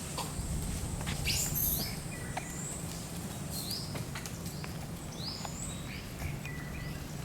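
Birds calling: repeated short rising chirps, irregularly spaced, over a steady low background rumble.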